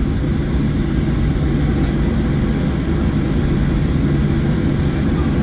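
Steady low cabin rumble inside a Boeing 737-700 on the ground after landing, with a constant hum from the idling engines and air-conditioning.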